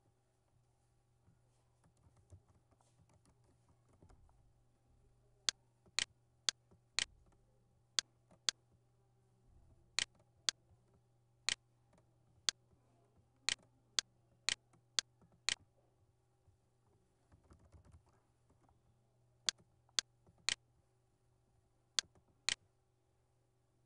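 About twenty sharp single clicks of a computer keyboard and mouse, starting about five seconds in, mostly half a second apart in short groups with pauses between, over a faint steady low hum.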